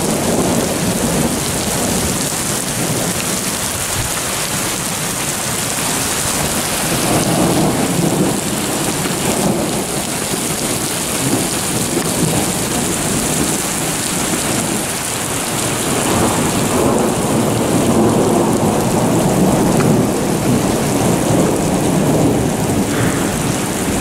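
Heavy rain pouring down steadily onto a flooded street, a dense even hiss of rain and splashing water that swells and eases a little.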